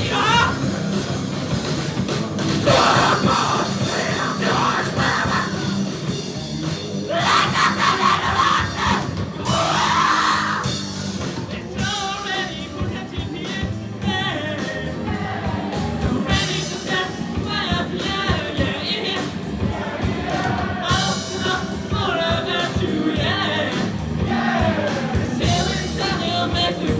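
Live rock band playing a loud, heavy song, with a singer alternating between singing and shouting over the full band.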